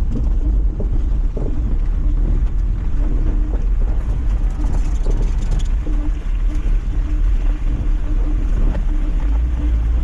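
Lifted Mazda MX-5 driving over a rough track: the engine runs under a heavy low rumble, with scattered knocks as the car bumps over the ground.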